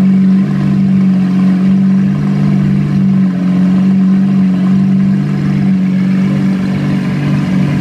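Lamborghini Aventador LP700's V12 engine running through a titanium aftermarket exhaust, holding a steady, even pitch without revving.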